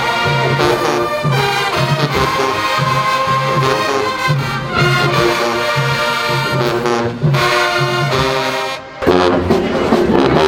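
Marching band brass and sousaphones playing a loud tune over a steady pulsing bass line. The playing breaks off just before nine seconds in, and a noisier mix of sound follows.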